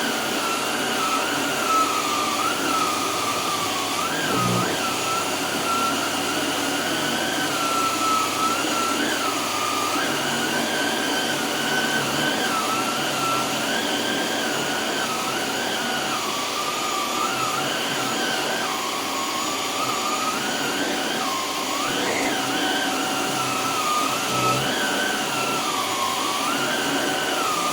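Canister vacuum cleaner running with a separately powered add-on powerhead brush. There is a steady rushing noise and a whine that keeps rising and falling in pitch.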